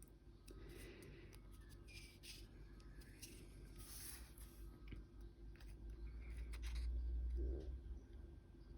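Scissors snipping paper or card in short, irregular cuts. A louder low rumble, like something being handled or bumped, comes about seven seconds in.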